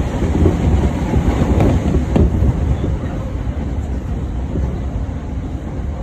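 Commuter train running, heard from inside the carriage: a steady low rumble of wheels on rails, with a sharp click about two seconds in.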